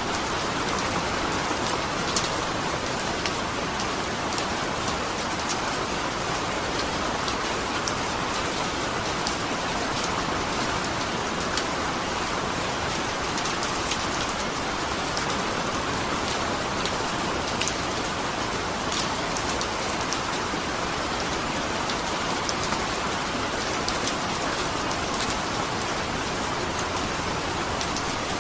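Steady rain falling, with a constant hiss and scattered fine drop ticks.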